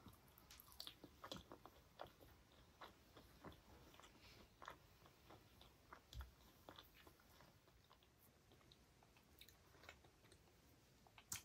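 Quiet, close-miked mouth sounds of a person chewing Indian sweets: soft wet clicks and smacks, busiest in the first few seconds, with one sharper click near the end.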